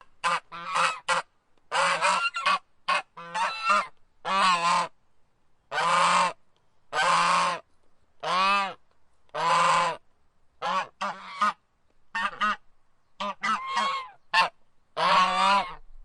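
Domestic geese honking in a series of repeated calls, some short and clipped, others longer with a pitch that rises and falls.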